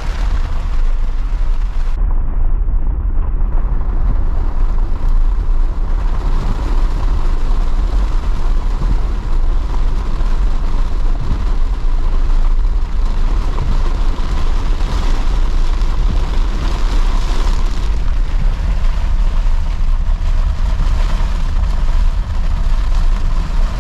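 Heavy rain drumming loudly on a vehicle, with a deep, steady rumble of wind and road noise.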